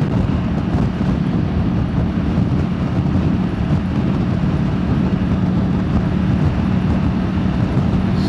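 Motorbike engine running at a steady cruise, a constant-pitched drone under a haze of wind and road noise, picked up by a wireless microphone on the rider with noise cancellation switched off.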